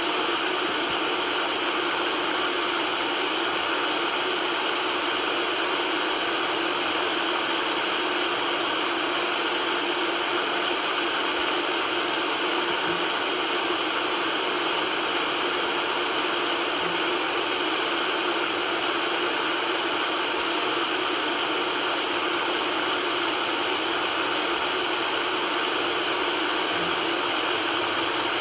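Steady white noise hiss, even and unchanging, with almost nothing in the low bass.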